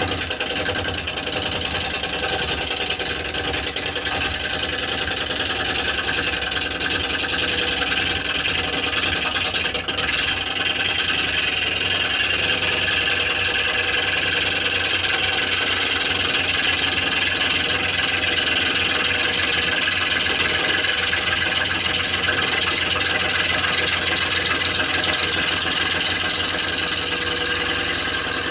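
Wood lathe switching on abruptly, then running steadily while a turning gouge cuts a spinning rowan bowl blank, a continuous hissing cut over the machine's hum.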